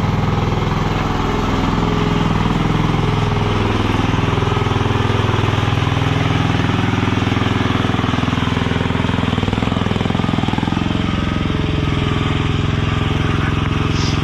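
Chinese mini skid steer's engine running steadily close by, its pitch wavering a little as it works.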